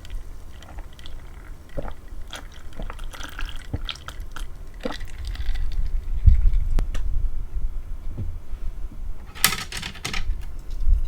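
Close-miked eating sounds: chewing with wet mouth noises and scattered small clicks, and a louder, noisier bite or slurp near the end.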